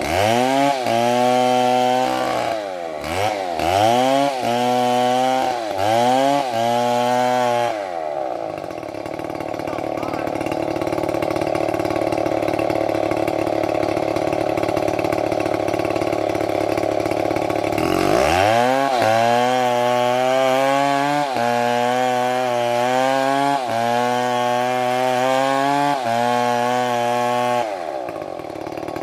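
Chainsaw engine revving up and down in repeated bursts. After about eight seconds it gives way to a steadier, even sound for some ten seconds, and the revving returns near the end.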